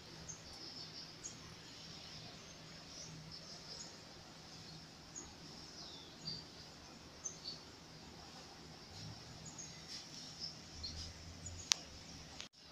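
Birds chirping and calling in short scattered notes over a steady high background hiss, with one sharp click near the end.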